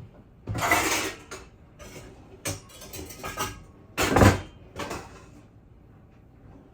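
Kitchen handling noises: a rustle about half a second in, a few light clicks, then a heavier knock about four seconds in and another shortly after, like containers or cupboard doors being handled.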